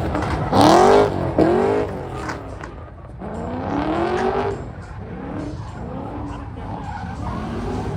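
Performance car engines revving hard as cars run past one after another, the pitch sweeping up and down. The loudest run comes about half a second in, with another long rise and fall in the middle.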